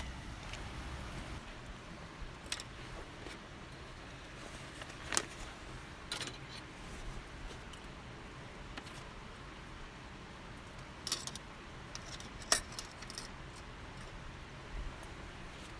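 A handful of scattered sharp clicks and light clinks over a low steady background, the loudest about twelve and a half seconds in.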